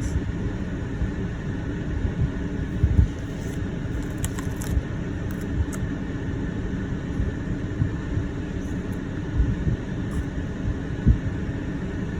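Steady low rumble and road noise inside a moving car, with a few soft thumps.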